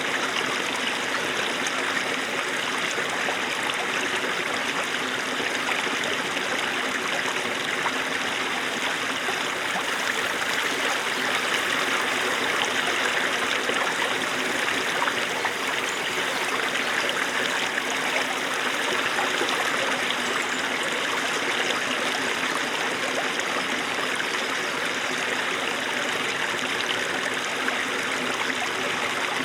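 Small snowmelt stream running over stones: a steady, even babble of flowing water with fine trickling detail.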